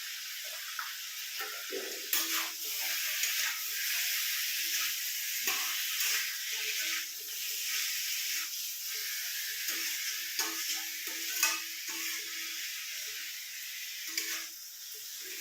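Chicken pieces sizzling steadily in hot oil in a pan, with a spatula scraping and knocking against the pan again and again as the chicken is stirred.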